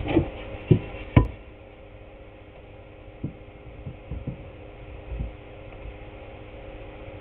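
Three sharp knocks in the first second and a half, then a few softer thumps, over a steady electrical hum.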